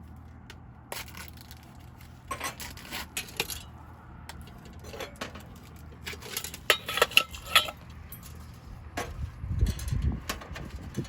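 Clinking of tableware and metal utensils: a run of sharp clinks and taps, several with a brief ringing, the loudest cluster about six to seven seconds in. A low rumble comes in near the end.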